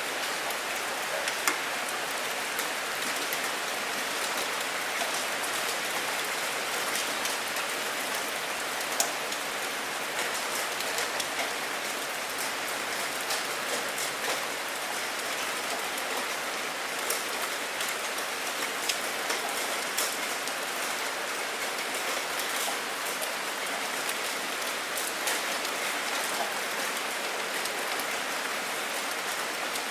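Steady rain falling, with the patter of many separate drops striking a surface.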